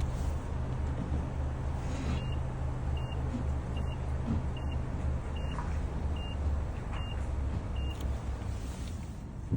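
2022 Mazda 6 running with a steady low rumble, over which a short high electronic beep sounds eight times, evenly about 0.8 s apart, starting about two seconds in: the car's warning or parking-sensor beeper.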